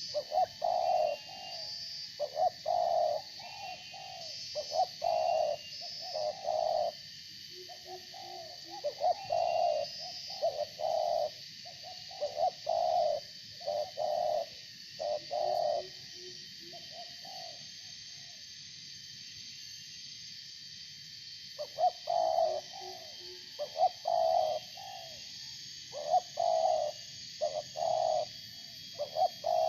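Spotted doves (tekukur) cooing in repeated phrases of short notes, with a pause of a few seconds just past the middle before the cooing resumes. A steady high-pitched buzz runs underneath throughout.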